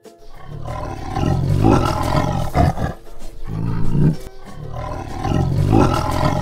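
Tiger roaring: two long roars, the second beginning about halfway through.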